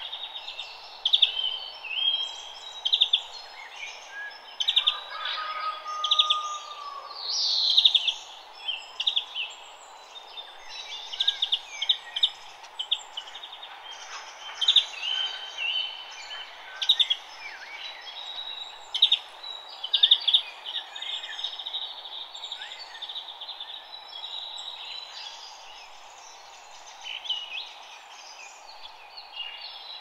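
Woodland birds singing and calling: many short, high chirps and quick trills from several birds overlapping, over a steady background hush.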